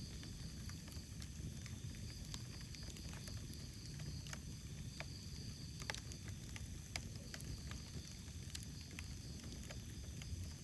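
Wood fire in a fireplace crackling: irregular sharp pops and snaps over a low steady rumble, with a couple of louder pops in the middle.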